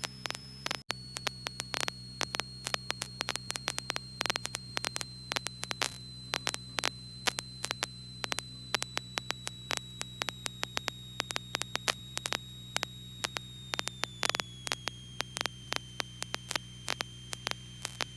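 Intercom audio feed in a light aircraft with no one transmitting: a steady electrical hum under irregular static clicks and crackle, with a faint high whine that slowly falls in pitch.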